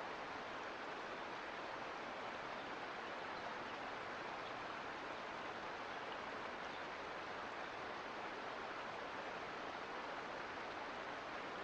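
Mountain creek water rushing and babbling, a steady, even flow.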